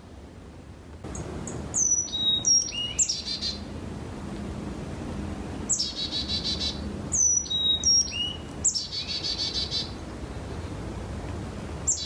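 A songbird singing short repeated phrases, each a few sharp falling whistles ending in a rapid trill, every few seconds.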